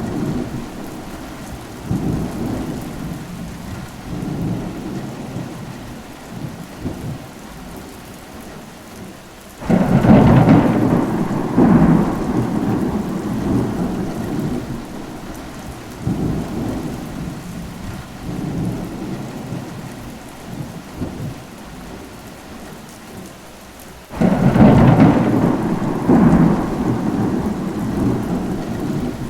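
Steady rain with thunder. Two loud claps break in suddenly, about ten seconds in and again near the end, each rolling on and fading over several seconds.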